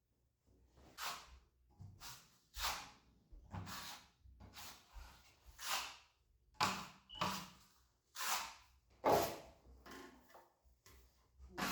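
Rough hand strokes scraping or rubbing across a drywall patch, about a dozen in all at roughly one a second, each short and hissy.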